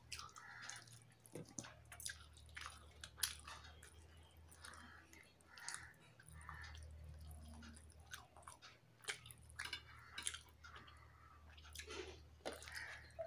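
A person chewing mouthfuls of rice eaten by hand: soft, faint chewing and lip smacks with scattered small clicks, over a low steady hum.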